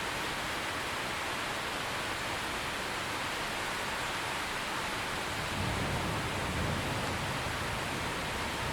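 Steady heavy rain, an even unbroken hiss of falling water. A low rumble swells in a little past halfway through.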